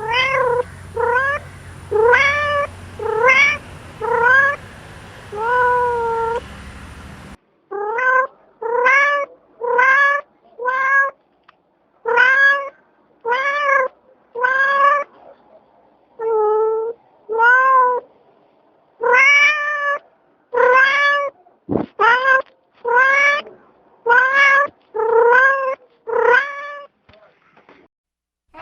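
A cat meowing over and over, about two dozen short calls at roughly one a second, each rising and then falling in pitch.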